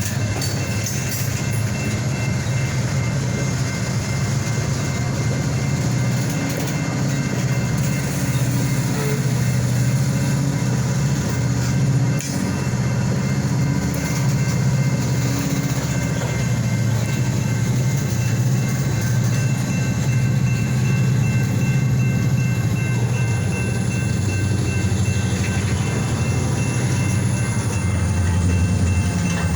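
EMD GP-series diesel-electric locomotives running with a steady low rumble.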